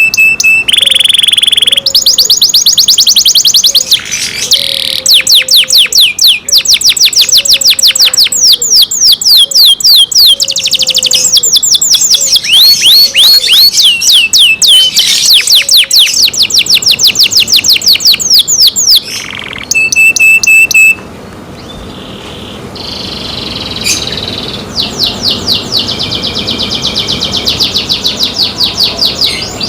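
Domestic canary singing: long, loud rolls of fast repeated high notes that each sweep downward, one roll running into the next. The song breaks off briefly about twenty seconds in, and what follows is softer.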